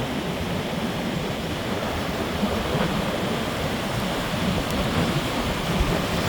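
Wind buffeting the microphone: a steady rushing noise with a fluctuating low rumble.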